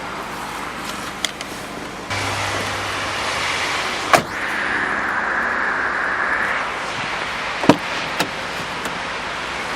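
A car door being worked: sharp latch clicks and knocks over steady noise, which gets louder about two seconds in as the door opens, while someone gets into the back seat.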